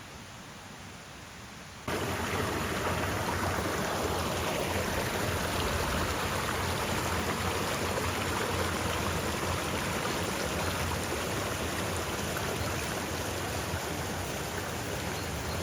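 Steady rushing water noise, cutting in abruptly about two seconds in after a quiet start.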